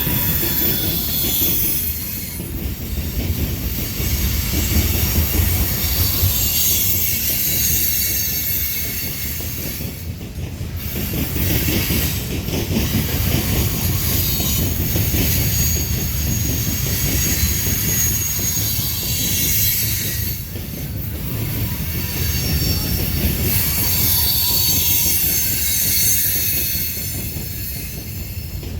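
Freight cars of a Norfolk Southern manifest train rolling past: a continuous rumble of steel wheels on rail with high, thin squealing from the wheels, swelling and easing a few times.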